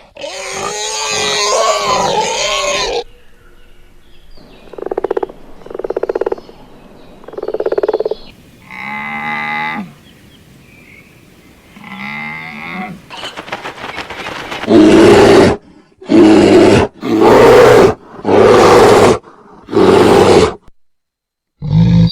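A run of animal calls: a dense squealing call at first, then a few short grunts and two pitched calls, and in the second half five loud roars, each about a second long.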